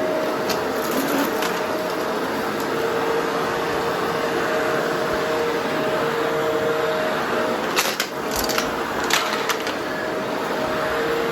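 Vacuum cleaner running steadily with a motor whine, broken by a few sharp crackles and clicks about eight to nine and a half seconds in.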